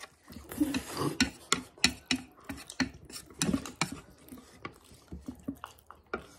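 Utensils clicking, tapping and scraping against a bowl as noodles are stirred and mixed, in many irregular sharp taps.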